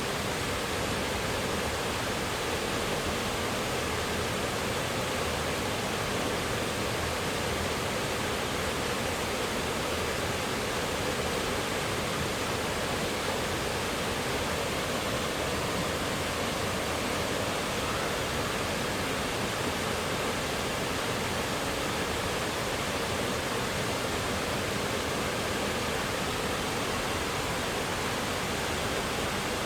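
Man-made waterfall pouring steadily: a continuous, even rush of falling water with no change in strength.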